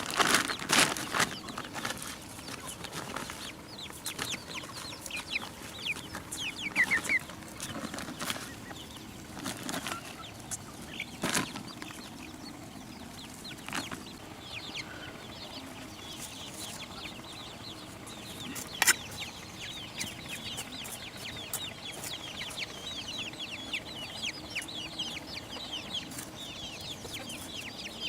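Chickens clucking and chirping, thickest in the second half, with a few sharp knocks, the loudest about two-thirds of the way through.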